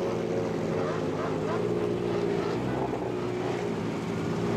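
Car engine running at a steady cruise, a low drone of nearly even pitch heard from inside the cabin while driving.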